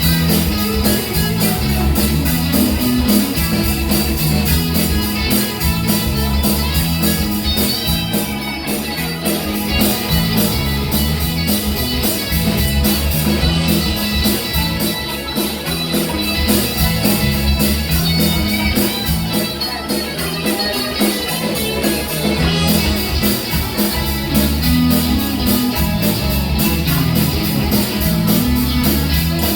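Live band playing with a steady beat: guitar over a bass line and drum kit.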